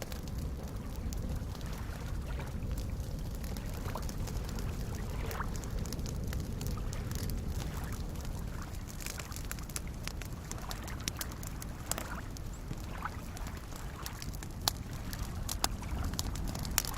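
Soft lake waves lapping against the shore with a low, steady wash and small gurgles, over a campfire crackling with scattered sharp pops that come more often near the end.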